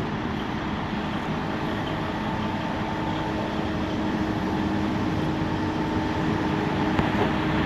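Steady hum inside a parked Prevost H3-45 coach bus idling, its engine and climate fan running, with a few faint held tones.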